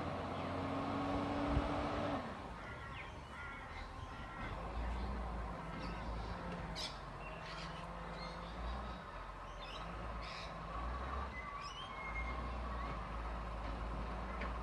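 Birds calling in short, scattered calls over the low rumble of an idling engine. A louder mechanical hum at the start cuts off about two seconds in.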